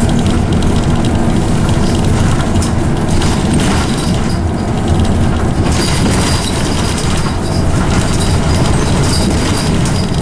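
Inside a Scania OmniCity single-deck bus on the move: its engine and loud ZF automatic gearbox running steadily, with frequent rattles and clicks from the body.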